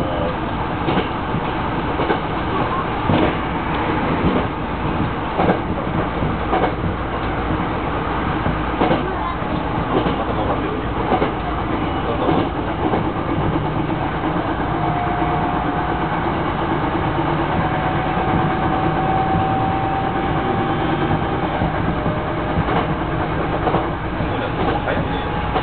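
Hankyu 9300 series electric train running at speed: steady rolling noise with irregular clicks and clacks of the wheels over the rails. About halfway through, a faint high whine rises slowly in pitch for a few seconds.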